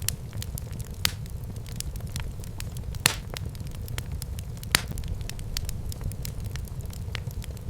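Wood fire burning in a fireplace: a steady low rumble of flames with irregular sharp crackles and pops, the loudest about one, three and nearly five seconds in.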